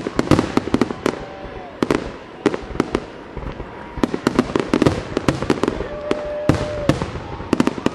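Aerial fireworks shells bursting in a rapid string of bangs and crackling reports, several a second.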